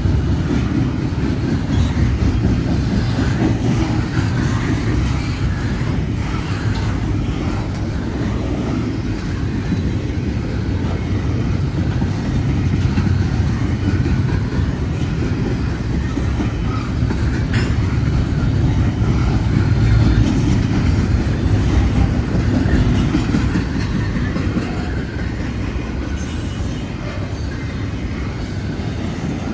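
Freight train cars rolling past: a steady low rumble with wheel clicks on the rail.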